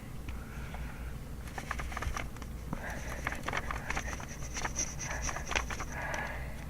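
Handwriting on paper for kanji practice: a stream of short scratchy strokes and light taps, over a steady low hum.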